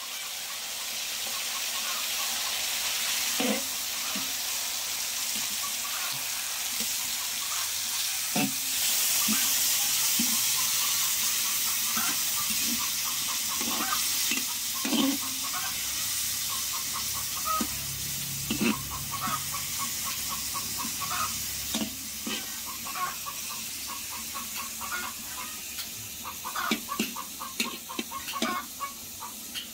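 Diced pork, garlic and onion sizzling steadily as they fry in a large metal wok, with a metal spatula scraping and clinking against the pan as it stirs them. The clinks come more often near the end.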